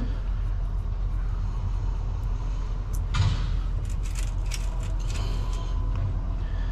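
Steady low rumble of an idling vehicle engine, with a few small, sharp clicks of lock pins and tools being handled, about three seconds in and again between four and five seconds in.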